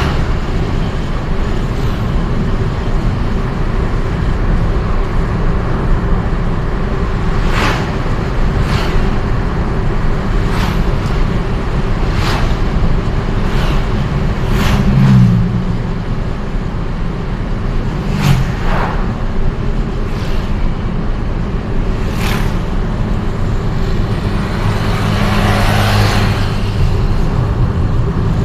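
Steady vehicle engine and road noise from travelling in city traffic, with other vehicles passing. A couple of short tonal sounds come about midway, and a louder passing vehicle swells near the end.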